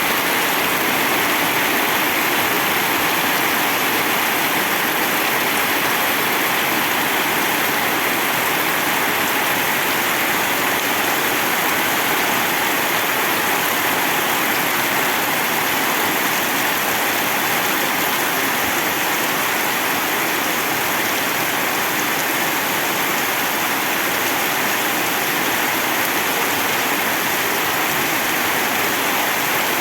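Heavy rain falling in a loud, steady downpour.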